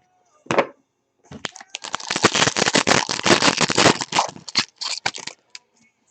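Crinkling and crackling of a trading-card pack's wrapper being handled and torn open, a dense run of sharp crackles lasting about four seconds.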